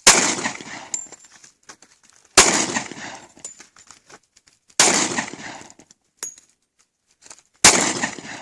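Glock 45 9mm pistol fired four times, slow and evenly spaced about two and a half seconds apart, each sharp report trailing off over about a second.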